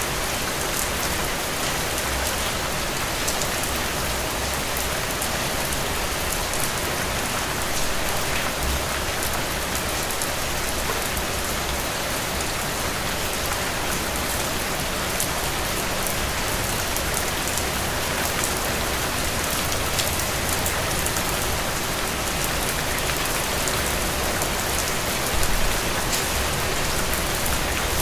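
Heavy, steady rain falling on soil and puddles, an even hiss with individual drops ticking through it.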